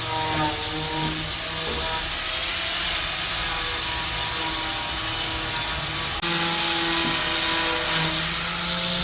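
A power tool running steadily, with a motor whine that shifts slightly in pitch. The sound changes abruptly and gets a little louder about six seconds in.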